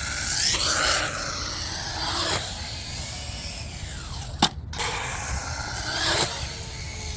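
Electric RC car running fast: a rushing noise of tyres and wind with a motor whine gliding up and down in pitch, and a single sharp knock about four and a half seconds in.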